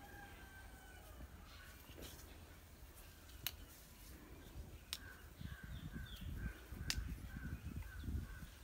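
A bird calls in a quick run of short, evenly spaced notes through the second half, after a fainter drawn-out call near the start. A few sharp clicks fall among the calls.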